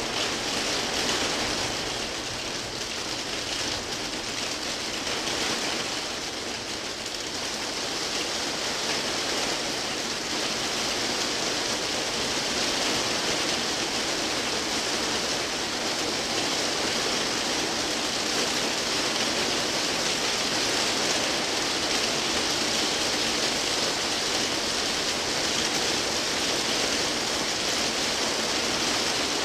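Heavy rain falling, a steady dense hiss. It eases a little a few seconds in, then holds steady.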